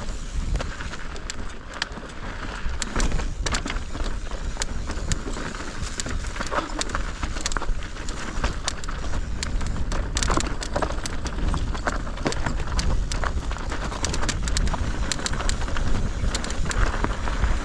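Mountain bike rattling and clattering over a rough trail, with many irregular sharp clicks and knocks from the bike over a steady low rumble of wind on the microphone.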